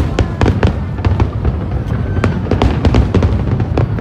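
Aerial fireworks display: shells bursting in quick succession, many sharp bangs and crackles over a continuous low rumble.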